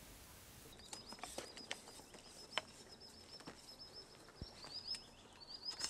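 Faint outdoor ambience with a small bird chirping: quick runs of short, high chirps, thickening near the end. A few soft clicks and knocks come from handling a camera tripod.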